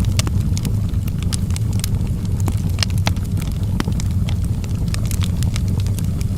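Fire burning in a fireplace, crackling: irregular sharp snaps and pops over a steady low rumble.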